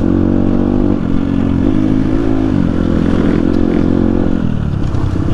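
Dirt bike engine running steadily under way, its pitch rising and dipping briefly about two seconds in and falling off near the end.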